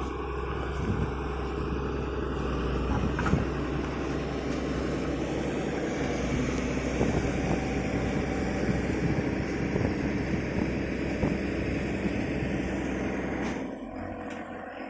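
Liugong 921D hydraulic excavator's diesel engine running steadily under load, with scattered irregular knocks of steel on rock. Near the end the engine note drops and the sound gets quieter.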